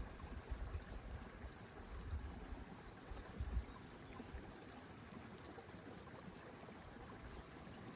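Steady, faint rushing outdoor noise on a mountain walk, broken by irregular low rumbles through the recording.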